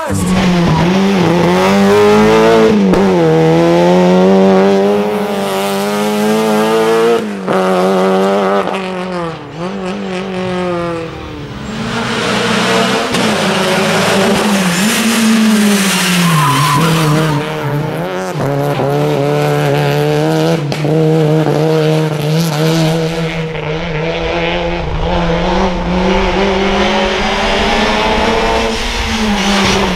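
A Renault Clio race car's four-cylinder engine revving hard through a slalom run. The revs climb, fall away and climb again over and over as the driver lifts off and gets back on the throttle between the gates.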